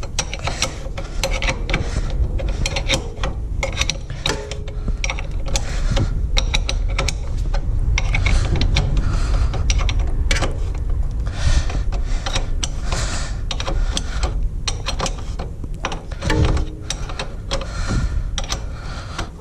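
Ratchet wrench clicking rapidly and continuously as it backs out the motorcycle center stand's mounting bolts.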